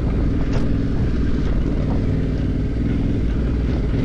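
Motorcycle engine running steadily, a continuous low drone at an even pitch.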